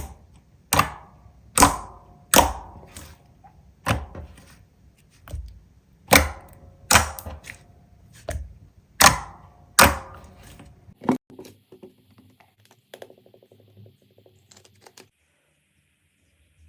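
Slime being pressed by hand, giving sharp crackling pops about once a second, around a dozen in all, then fainter small crackles that stop near the end.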